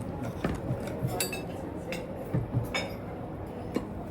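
Cutlery clinking against plates as people eat, a handful of sharp, irregular clinks over a low background murmur.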